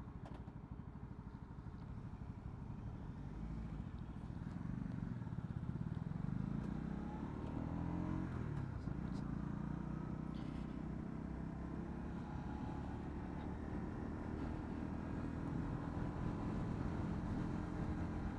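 Honda CB125R's single-cylinder four-stroke engine, heard from the rider, pulling away with its pitch rising for a few seconds. It drops at a gear change about halfway through and then runs steadily, over a low rumble of wind and road noise.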